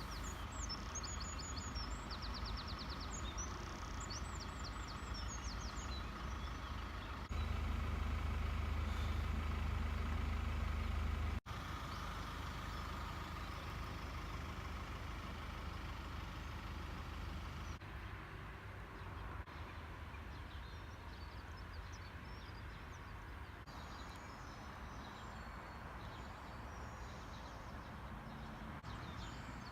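Steady low rumble of vehicle or engine noise, louder for a few seconds from about a quarter of the way in, with birds chirping over it in the first seconds and faintly again later.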